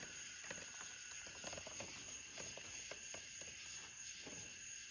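Faint scattered clicks and taps of small parts being handled on the ATV's carburetor, over a steady high hiss.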